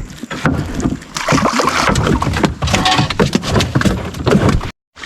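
Small boat on the water: water sloshing and splashing against the hull, with wind across the microphone and frequent knocks. The sound drops out briefly near the end.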